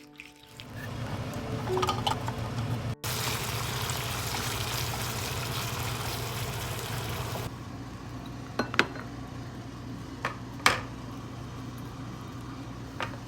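Food sizzling in a frying pan, with a hard cut about three seconds in. The sizzle then drops lower, and a few sharp clinks of utensils against the cookware come in near the end.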